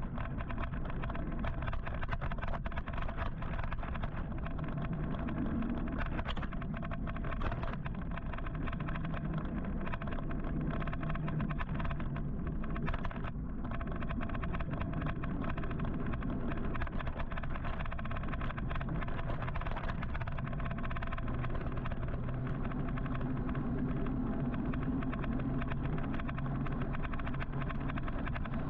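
Steady city traffic and road noise heard from a moving electric motorcycle: a continuous rushing noise with a low hum that drifts up and down in pitch, and scattered small clicks.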